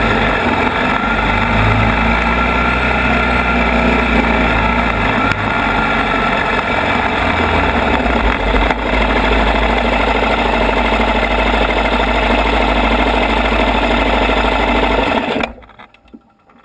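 ATV engine running loudly and steadily on the trail, then cutting out abruptly near the end.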